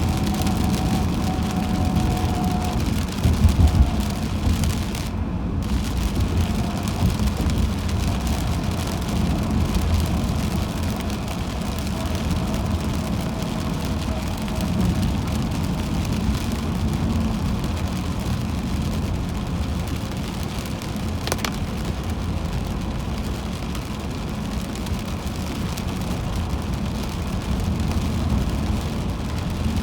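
Car driving on a highway in heavy rain: steady road and tyre noise on wet pavement, with rain on the car.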